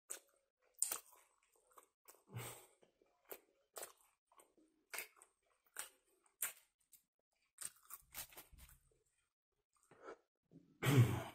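A person chewing a mouthful of kebab sandwich close to the microphone: soft, crunchy mouth clicks and smacks at irregular intervals. There is a louder, fuller mouth noise near the end.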